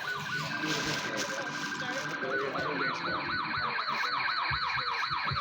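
Electronic siren cycling through its patterns: a rapidly pulsing steady tone, then from about two seconds in a fast up-and-down yelp of roughly three sweeps a second. Crowd chatter runs underneath.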